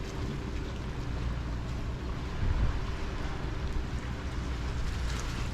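Shoreline ambience: a steady wash of sea water with wind buffeting the microphone, under a faint low steady hum.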